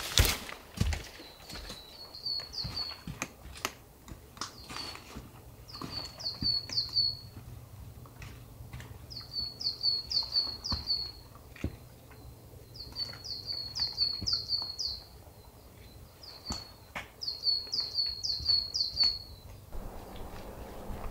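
A small songbird singing short, quick runs of chirps, the phrase repeated every few seconds. Scattered sharp clicks of hiking boots stepping on rock, mostly in the first half.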